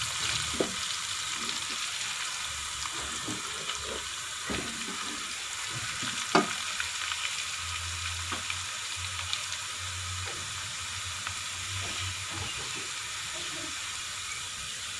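Chopped onions and whole spices sizzling steadily in hot ghee in a metal pot. A wooden spoon stirs and knocks against the pot a few times, most sharply about six seconds in.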